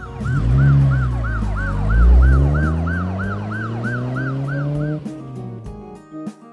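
Police siren sound effect: a fast yelp, about three rises and falls a second, over a low vehicle rumble that slowly falls in pitch. It cuts off about five seconds in, and light music follows.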